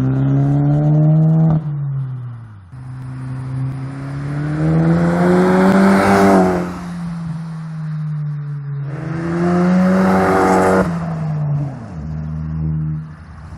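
Mk7 VW Golf GTI's turbocharged 2.0-litre four-cylinder through a Baun Performance 'Less Aggressive' stainless catback exhaust with a Vibrant resonator, accelerating at open throttle. The exhaust note climbs in pitch three times, each climb ending in a sudden drop.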